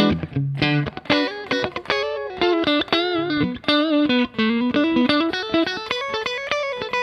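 Electric guitar played through a Fender Hot Rod Deluxe IV, a 40-watt tube combo amp with a 12-inch Celestion Type A speaker. It opens with short choppy chord stabs, then moves into single-note lead phrases with string bends and vibrato.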